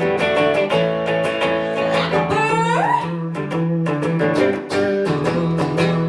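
Guitar playing an instrumental passage of plucked and strummed notes over a steady bass line, with one note sliding up in pitch about two and a half seconds in; this closes the song, without singing.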